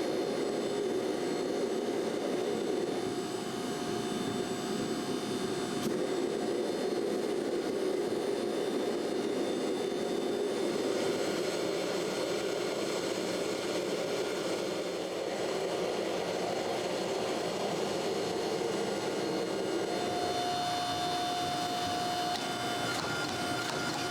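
A forge running with a steady roar of air and fire, with a faint hum of fixed tones over it.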